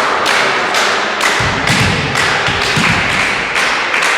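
A steady run of sharp thuds and taps, about two or three a second, with a low rumble joining in about a second and a half in.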